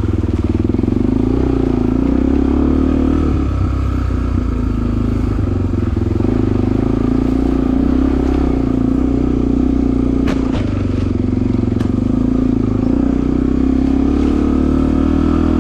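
Suzuki DR-Z250 dirt bike's single-cylinder four-stroke engine running steadily while being ridden, easing off briefly about three seconds in. Two sharp clicks come about ten and twelve seconds in.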